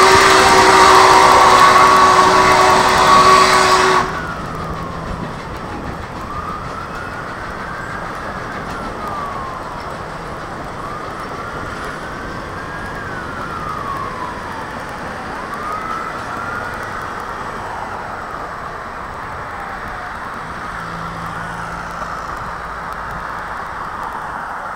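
Union Pacific 844 steam locomotive passing close by, loud, with its whistle holding a steady chord over a hiss of steam, cutting off suddenly about four seconds in. After that a siren wails up and down, about one sweep every four seconds, over background road noise.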